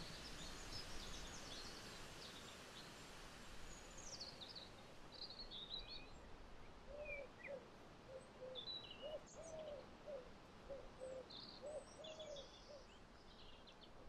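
Faint birdsong from several birds: short high chirps and trills scattered throughout. From about halfway, a run of short, low calls repeats roughly twice a second for several seconds.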